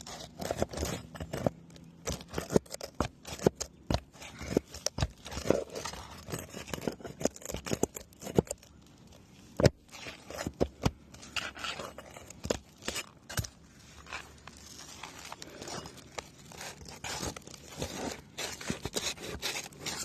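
Roof shingles being worked loose and their roofing nails pried out: irregular scraping and many sharp clicks of a metal tool against shingles and nails.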